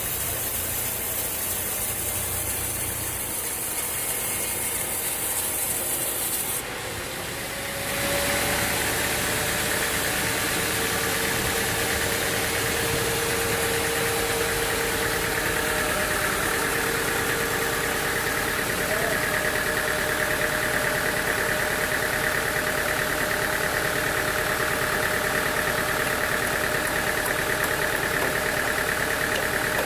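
Sawmill machinery running under engine power. The sound changes abruptly about seven seconds in, then settles into a steady drone with a faint steady whine.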